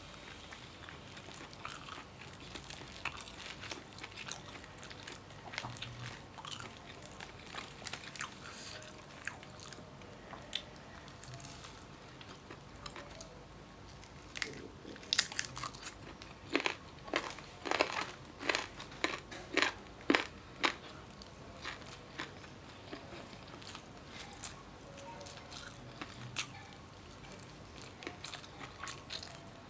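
Close-up eating sounds: chewing and biting into chicken with rice, with a run of loud sharp crunches about halfway through.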